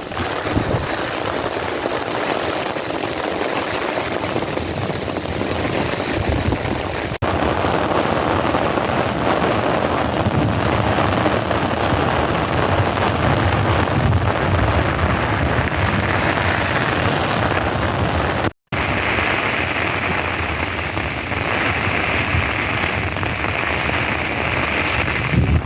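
Heavy rain pouring down in sheets: a loud, dense, steady hiss of downpour. The sound jumps abruptly about 7 seconds in and drops out for an instant near 18 seconds.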